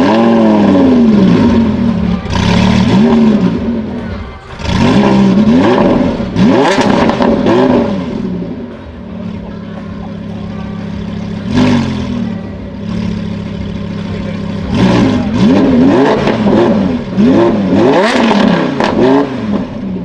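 Lamborghini Huracán LP610-4's naturally aspirated V10 through a Frequency Intelligent (Fi) aftermarket exhaust, revved again and again, each blip rising and falling in pitch, with crackles as the revs drop. In the middle it settles to a steady idle for a few seconds, broken by one more blip.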